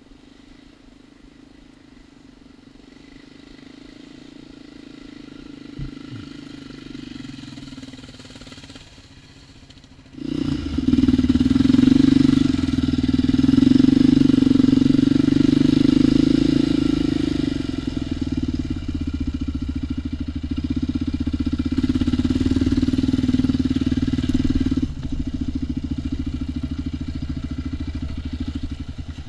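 ATV engine running: faint and slowly building for the first ten seconds, then suddenly loud and steady from about ten seconds in, easing slightly near the end.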